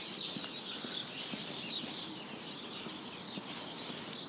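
Small birds chirping and twittering at a distance, a steady high chatter of many short calls.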